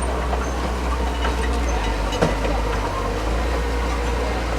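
Diesel engine of heavy earthmoving machinery running steadily, with a single sharp knock a little past two seconds in.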